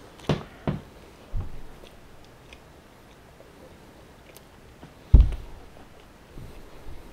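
A person chewing a mouthful of bacon cheeseburger, with a few sharp wet mouth clicks in the first second and a half and one louder low thump about five seconds in.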